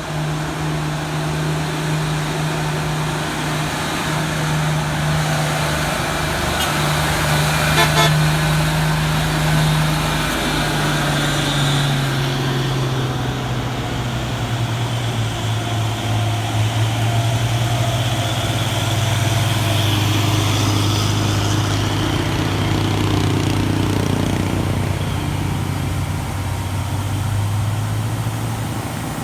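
Heavy truck engines labouring up a steep grade: a steady low engine drone whose pitch drops about eleven seconds in and holds lower, with a short louder burst about eight seconds in.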